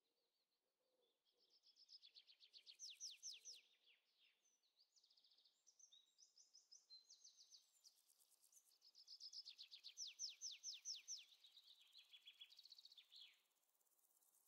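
Faint birdsong: several fast trills of repeated, downward-sweeping high notes, with short pauses between phrases. The song stops shortly before the end.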